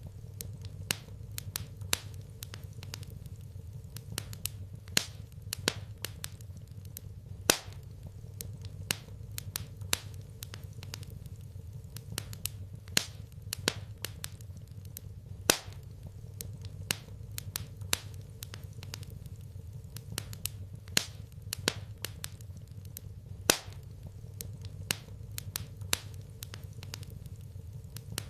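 Wood fire in a fireplace crackling, with irregular sharp pops, a few much louder than the rest, over a steady low rumble.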